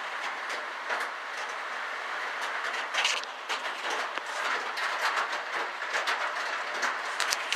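Heavy rain coming down, a steady hiss with many sharp, irregular taps of drops striking close by.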